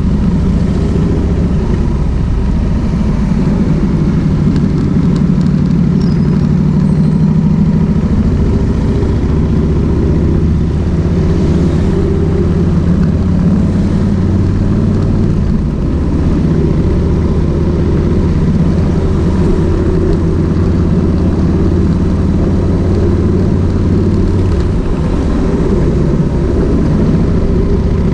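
Kawasaki VN1600 Mean Streak's V-twin engine running on the road, a steady low engine note that changes pitch a few times with the throttle.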